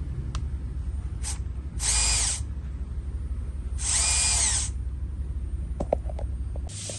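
Small electric motor of an RC model car whining in two short bursts about two seconds apart, over a steady low hum, followed by a few light clicks.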